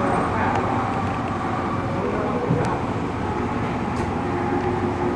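Steady rumble of a train, an even mechanical noise with no distinct strikes or horn.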